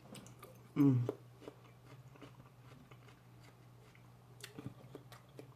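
Close-up chewing of food: soft, scattered wet clicks of the mouth. About a second in comes a short hummed 'mm' with falling pitch, over a faint steady low hum.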